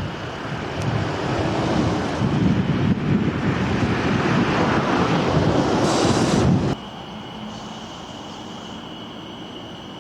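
A train rumbling past, growing louder, then cut off suddenly about two-thirds of the way through; a quieter steady hiss follows.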